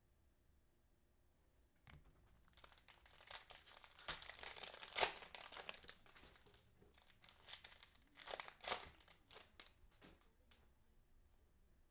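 Cellophane wrapper of a football trading-card cello pack being torn open and crinkled, in two spells of crackling, the second shorter.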